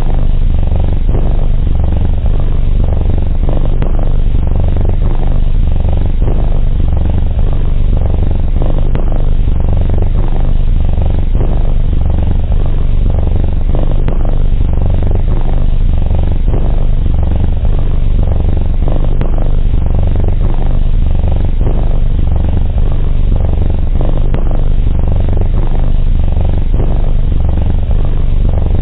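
Domestic cat purring close to the microphone: a loud, steady, low rumble.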